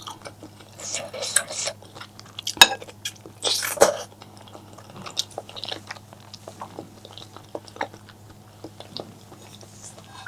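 Close-miked eating: wet chewing and mouth smacks, with a sharp click about two and a half seconds in and a longer rushing burst around four seconds. A steady low hum sits underneath.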